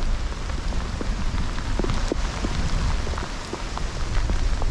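Heavy rain pouring onto wet pavement and grass, with many individual drops ticking close by. Gusting wind rumbles on the microphone underneath.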